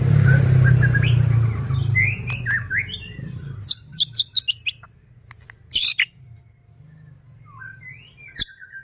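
White-rumped shama (murai batu) singing: short, sharp whistled notes sweeping up and down, mixed with quick clicks, in scattered phrases. A low rumble sounds under the song for the first two seconds or so.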